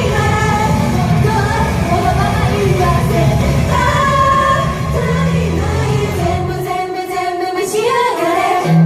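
Pop song with singing over a full backing track; about two-thirds of the way through the bass and beat drop out, leaving the voices over a lighter accompaniment.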